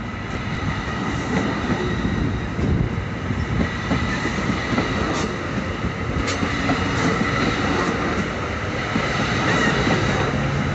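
Train running on the rails: wheel-and-rail rumble with faint steady squealing tones and a few light clicks, growing louder near the end.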